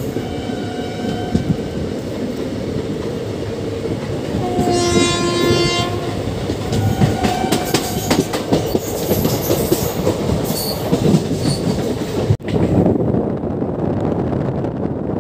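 Passenger train running at speed, its coaches rattling along the track, with a train horn sounding several times. The longest and strongest blast comes about five seconds in. The sound drops out for an instant near the end and comes back duller.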